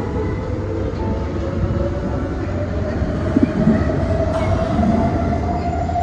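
MRT train running, with a steady low hum under a rumble and a motor whine that rises slowly in pitch.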